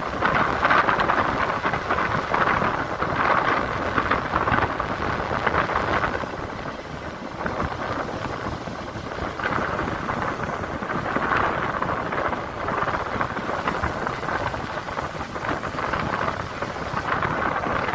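Sea surf on a beach: a continuous rushing wash of waves that swells and eases, dipping for a few seconds in the middle.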